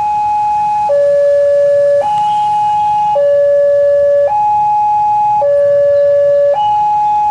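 Railway level-crossing warning alarm sounding, a steady electronic two-tone that alternates between a higher and a lower note about every second.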